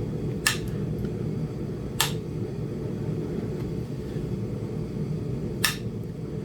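Three sharp clicks, spaced a second or more apart, of indirect-percussion flintknapping: the indirect flaker, a punch, being struck as it presses on the edge of a small Flint Ridge chert biface. Under them is the steady low rumble of a running heater.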